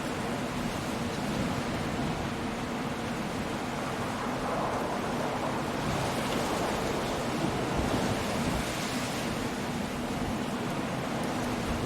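Stormy sea surf breaking on a rocky coast: a continuous rush of waves mixed with wind, swelling louder for a few seconds around the middle as a bigger wave comes in.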